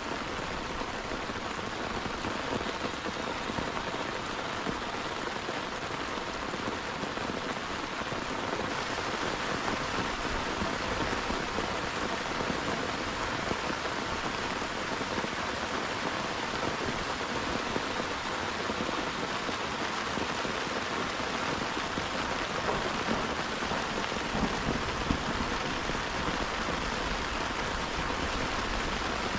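Heavy rain falling steadily in a dense, even patter, getting a little fuller about nine seconds in.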